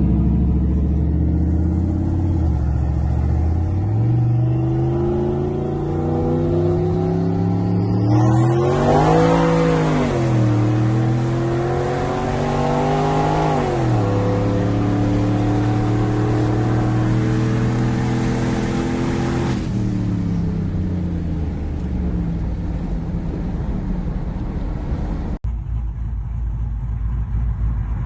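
Turbocharged V8 engine of a GMC Sierra pickup accelerating through the gears: the engine note climbs, drops at an upshift and climbs again, then holds at a steady cruise before easing off. A brief high whine rises with the first pull, and a cut about three quarters of the way through switches to a different engine sound.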